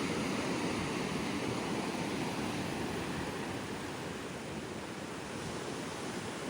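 Ocean surf washing ashore, a steady rushing that swells early and eases off about four to five seconds in.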